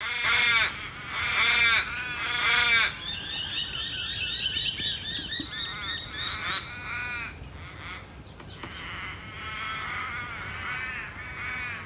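Birds calling: three loud harsh calls, then a fast run of repeated high notes, with quieter calls carrying on from about two-thirds of the way in.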